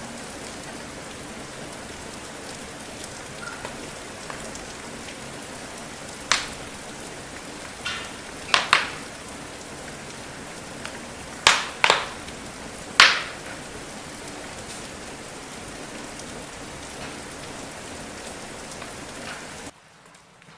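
Steady hiss of rain, with sharp pops and crackles of a wood fire, several loud ones between about six and thirteen seconds in. The sound cuts off abruptly near the end.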